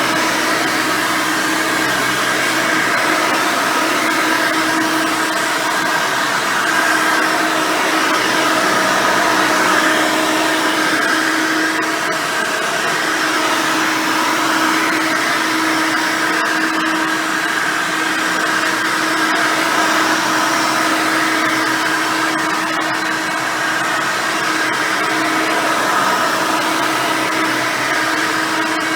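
Custom Hoover Elite 600 upright vacuum, running an Elite 350 single-row brush roll, running steadily while cleaning: a constant motor tone over airflow noise, with a few faint ticks along the way.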